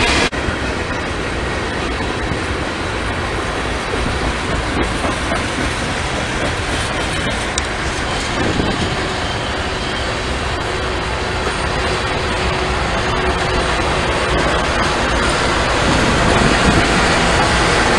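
A train passing, its wheels rolling on the rails with a loud, steady noise.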